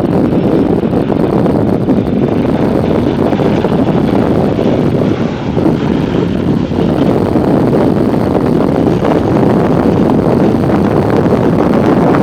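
Boeing 737-800 jet airliner's engines on landing, a loud, steady rushing drone mixed with wind buffeting the microphone.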